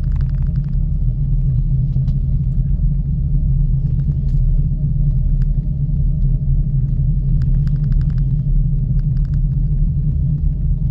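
Steady low rumble and hum of a ropeway gondola in motion, heard from the cabin, with short bursts of rapid rattling clicks near the start and again about three quarters of the way through.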